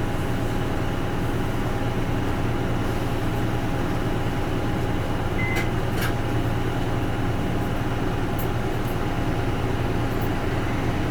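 Isuzu Erga Mio bus's four-cylinder diesel engine idling steadily at a stop, heard from inside the cabin. A short high beep and a few light clicks come about five to six seconds in.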